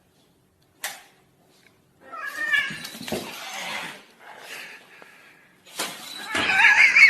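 A cat meowing, then a louder, wavering yowl near the end, with a short click about a second in.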